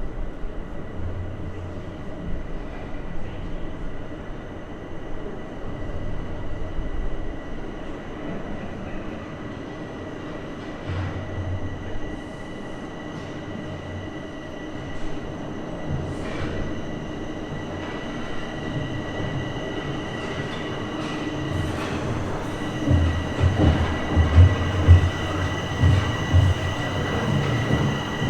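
Bombardier Toronto Rocket subway train running on the rails: a steady high whine over a low wheel rumble, with heavier knocks in the last few seconds.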